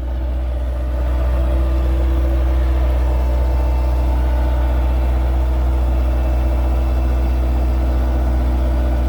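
Bobcat skid steer's engine running at a steady speed with a deep, even hum as the machine is driven onto the truck's ramps; the engine note rises slightly about a second in and then holds constant.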